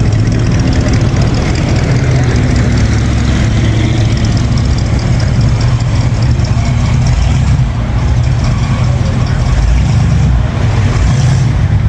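Classic car engine idling with a steady, loud low rumble.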